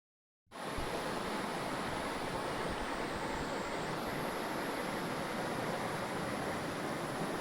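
Steady rushing of creek water, an even noise without clicks or rhythm, starting about half a second in after a moment of dead silence.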